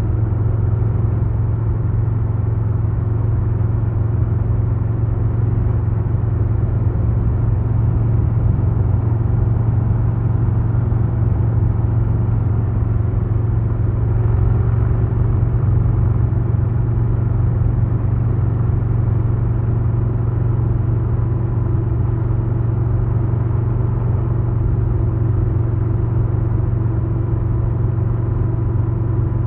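2022 Harley-Davidson Low Rider S V-twin engine and exhaust running steadily, a deep even rumble that holds one pitch with no revving or gear changes.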